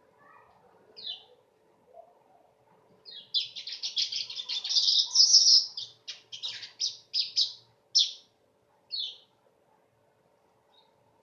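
Manyar (weaver bird) singing: a lone chirp, then a dense run of rapid, high, buzzy chattering notes for about two and a half seconds, followed by several separate short chirps that thin out.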